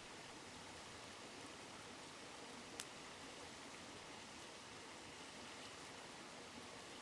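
Steady rush of a shallow river murmuring over stones, with a single sharp crackle from a wood campfire about three seconds in.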